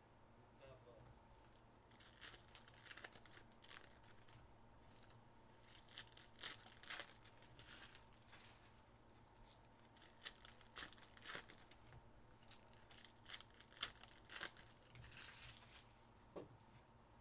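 Trading-card pack wrappers being torn open and crinkled by hand: faint, short rustling bursts in irregular clusters a few seconds apart.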